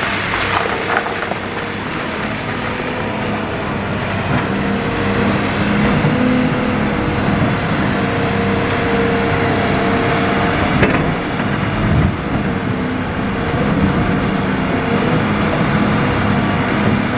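Hitachi EX200-5 hydraulic excavator's diesel engine running under load, its note shifting as the hydraulics work, with a few knocks of the bucket digging and dumping river stone.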